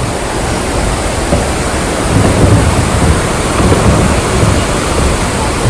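Mountain stream rushing over rocks: a loud, steady rush of water with a low rumble that swells and eases.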